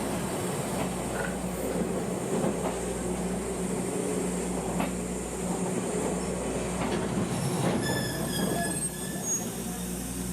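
Kominato Railway Satoyama Torokko trolley train running on the line: a steady low engine drone over the rumble of the wheels on the track. About eight seconds in, a high wheel squeal rings out for a second or so.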